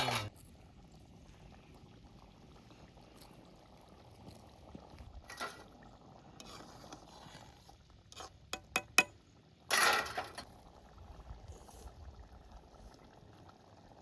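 A few sharp clinks in quick succession, then a short louder scrape or rustle, over a faint steady background.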